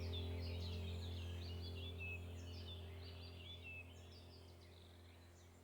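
A flock of small birds chirping busily in many short, quick calls, over a steady low hum that slowly fades away.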